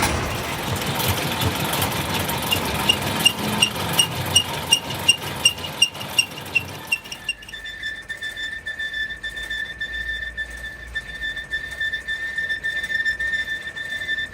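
Machine tool running while a crankshaft is machined. For the first half there is a noisy rumble with a rapid, even ticking, about four ticks a second. About seven seconds in the rumble drops away, leaving a steady high whine.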